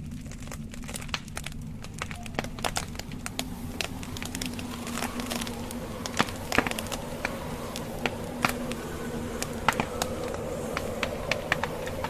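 Logs burning in a fireplace, crackling with irregular sharp snaps and pops, over a steady low rumble of wind with a faint drone.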